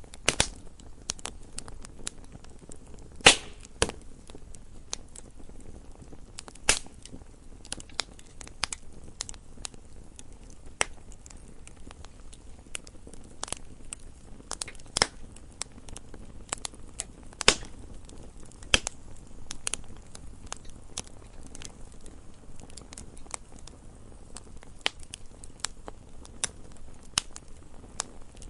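Campfire of burning wood crackling: a steady stream of irregular small pops with now and then a louder snap, over a low steady rumble of flame.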